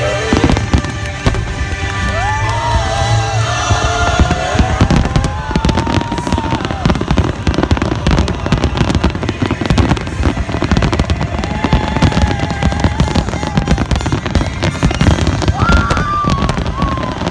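Aerial firework shells bursting in a dense, continuous barrage of rapid bangs and crackling.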